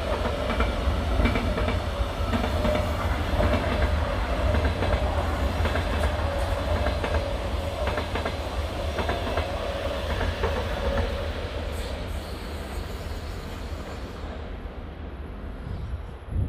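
Passenger train with double-deck coaches passing close by, its wheels clattering over rail joints with a faint steady whine underneath. The sound fades away over the last few seconds as the train moves off.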